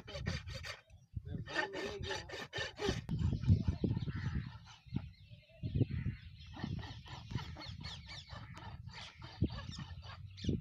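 Farrier's rasp filing a horse's hoof: quick repeated scraping strokes, about five a second, for the first few seconds, then slower, irregular scraping strokes.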